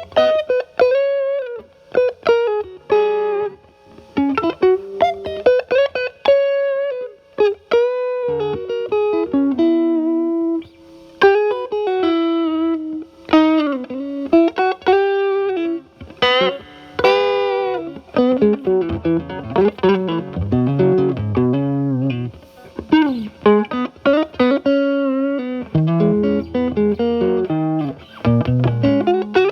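Stratocaster with single-coil alnico pickups through a Paul Cochrane Timmy overdrive at low gain, cleaned up with the guitar's volume rolled back, into a Marshall Valvestate amp's clean channel. Improvised blues single-note lines with string bends and vibrato.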